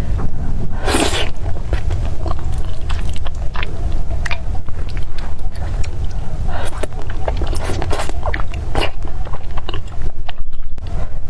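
Close-miked eating sounds: chewing and biting, with many small wet clicks and a longer noisy burst about a second in.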